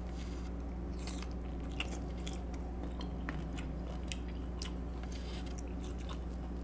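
Close-miked mouth sounds of someone biting and chewing boiled tiger shrimp: a scatter of small wet clicks and crunches.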